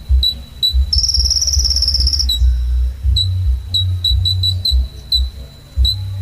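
Kolibri ninja (a sunbird) calling: sharp high chips repeated two or three times a second, broken by a buzzy high trill about a second in that lasts just over a second. Loud irregular low thumping runs underneath.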